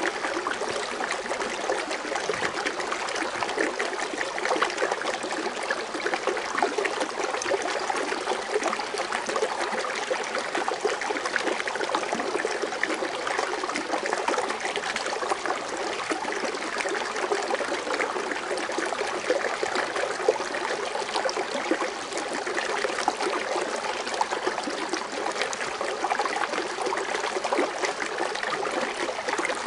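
Water fountain splashing and trickling steadily, a continuous even bubbling of falling water.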